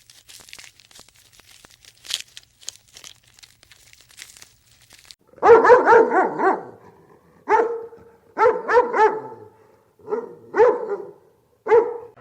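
A dog barking in short runs of sharp barks, starting about five seconds in; faint scattered clicks come before.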